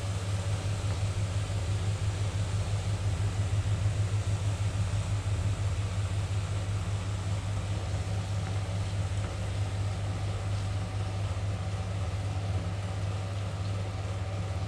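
Marinated chicken pieces sizzling in hot butter in a frying pan as they are laid in one by one, over a steady low hum.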